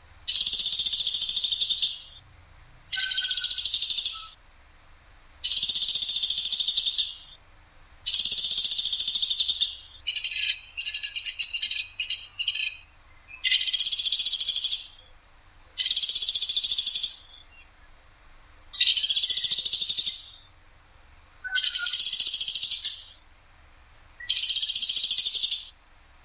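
Woodpecker sold in the bird-keeping trade as 'platuk sampit', giving a series of about ten loud, harsh, high-pitched rattling calls, each lasting about a second and a half, repeated roughly every two and a half seconds. The call near the middle breaks into a quick stutter of short pieces.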